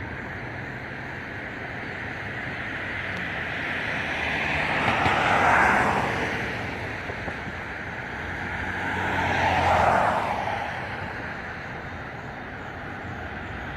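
Two vehicles passing by one after the other, the noise of each swelling up and fading away over a few seconds, over a steady outdoor traffic hum.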